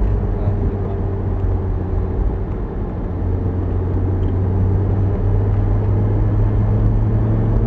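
Lamborghini Gallardo Performante's V10 engine running steadily, heard from inside the open-top cabin with wind and road noise. The engine eases off through a corner and picks up slightly near the end.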